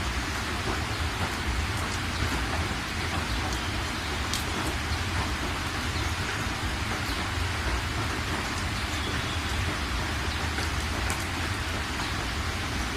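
Steady rain falling, with a continuous hiss of drops and scattered sharper drop ticks, over a low rumble.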